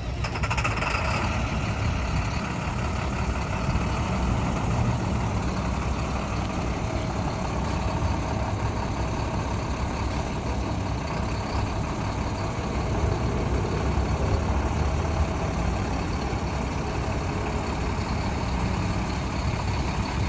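2013 International 4300 flatbed truck's diesel engine running steadily at a low, even rumble.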